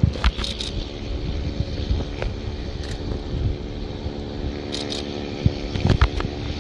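Airbus A321neo jet engines running with a steady hum of several held tones over a low rumble. Sharp knocks on the microphone break in near the start and again near the end.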